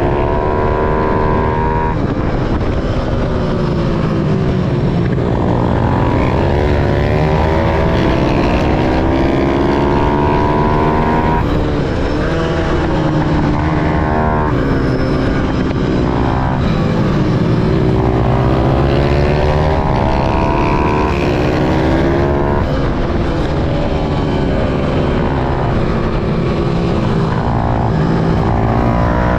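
Small pit bike motorcycle engines revving hard, climbing in pitch and then dropping suddenly over and over, as the bikes shift gears and ease off for corners.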